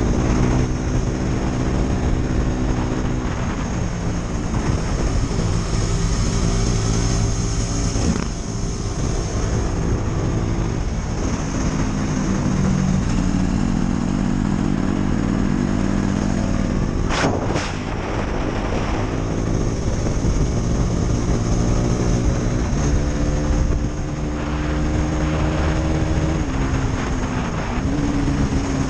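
KTM Duke 250's single-cylinder four-stroke engine running, its pitch rising and falling several times, with a sharp crack about seventeen seconds in.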